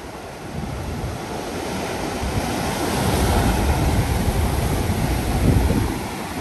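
Ocean surf breaking on a rocky shore, a wave's rush building over a few seconds to a peak and then easing near the end, with wind buffeting the microphone.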